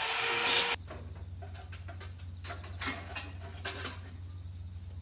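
A power tool running stops abruptly under a second in. Then come scattered light metallic clicks and taps of parts being handled during the combine repair, over a steady low hum.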